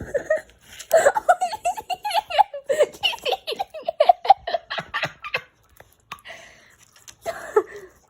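Hearty laughter: a long run of quick laughs lasting about four seconds, then one shorter laugh near the end.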